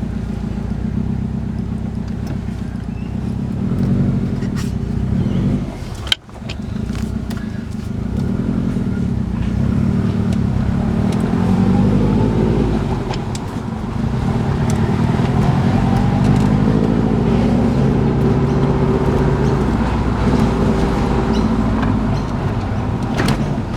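2011 Subaru WRX STI's turbocharged flat-four driving through a newly fitted Tomei Expreme Ti titanium 3-inch single-exit exhaust, loud and steady, its pitch rising and falling with the revs. About six seconds in the sound briefly drops off sharply, then picks up again.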